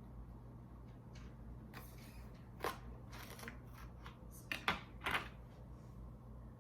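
A yellow Trinidad Scorpion pepper being cut open with a blade: a run of short, crisp cuts, scrapes and taps, the sharpest about three and five seconds in, over a faint steady hum.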